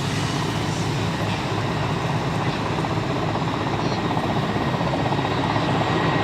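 Helicopter running up for take-off: a fast, steady rotor chop over a continuous engine rush.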